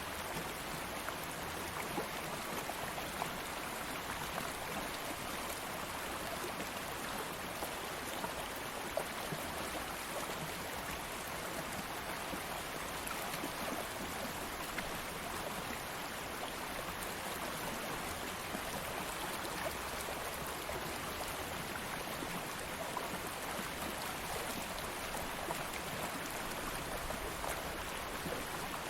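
A stream of flowing water, running steadily, with small splashes and trickles scattered through it.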